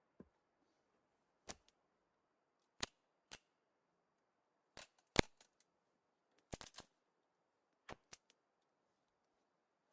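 Sharp, irregular clicks or snaps, about a dozen of them, some in quick pairs, over a near-silent background; the loudest comes about halfway through.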